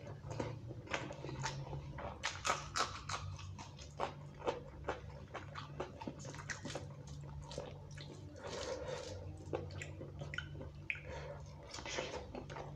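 Close-miked eating sounds: wet chewing and lip-smacking of rice and curry eaten by hand, with squelching as fingers mix the rice into the curry. Many short irregular clicks and smacks.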